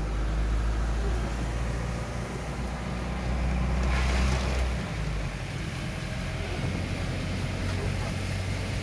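Cyclone wind buffeting the microphone: a deep, steady rumble with a hiss above it, and a gust swelling about four seconds in.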